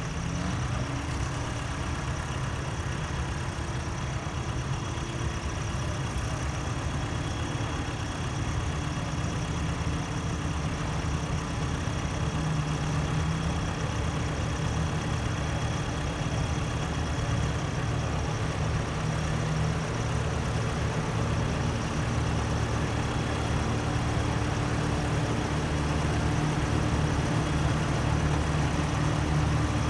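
Antique tractor engines running at a steady low speed, growing gradually louder toward the end as they come closer.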